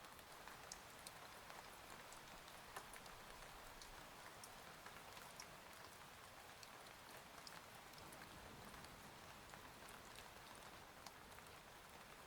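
Soft, steady rain ambience, with a steady hiss and scattered drops ticking sharply now and then.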